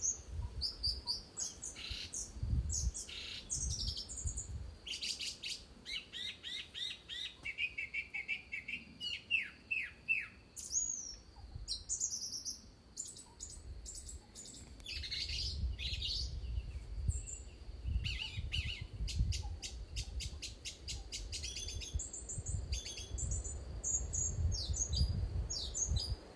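Several songbirds singing, a steady mix of varied chirps, fast trills and whistled sweeps, over a low rumble.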